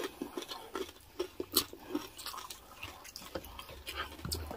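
Close-miked chewing: irregular soft, wet mouth clicks and smacks of someone eating.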